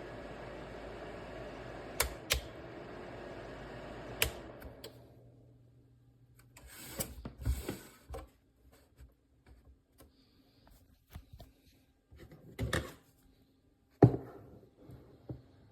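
Small PTC space heater's fan running with a steady whir, with sharp clicks about two and four seconds in; about five seconds in the whir winds down and stops. Scattered knocks and clicks follow.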